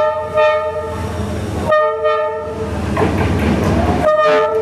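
Train horn sounding in three blasts: one that stops about a second and a half in, another just after, and a third near the end, over the low rumble of the train.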